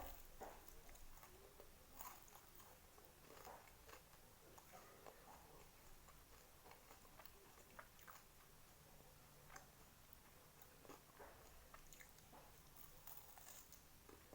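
Faint close-up eating sounds: irregular small wet clicks and soft crunches of biting and chewing, busier in the first few seconds and again near the end.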